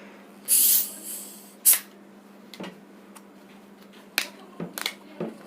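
Plastic soft-drink bottle of Sprite opened: a short hiss of carbonation escaping as the cap is twisted, a sharp click, then scattered small clicks and taps of bottles and caps being handled.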